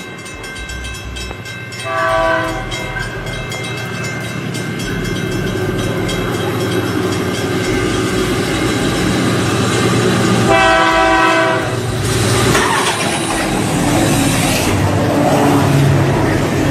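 Train horn sounding two chord blasts, a short one about two seconds in and a longer one later, over the rumble and rhythmic clacking of a passing train.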